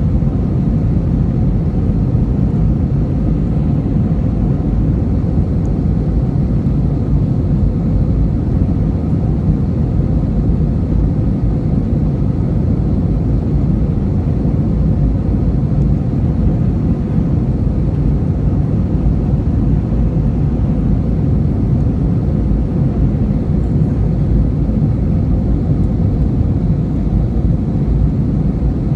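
Steady low rumble of an airliner's engines and airflow heard from inside the cabin in flight, with a few faint steady tones in the drone.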